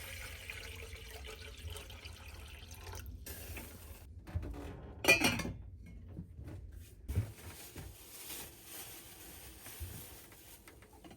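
Water being poured into a vessel, with a sharp knock about five seconds in and a few lighter knocks after it.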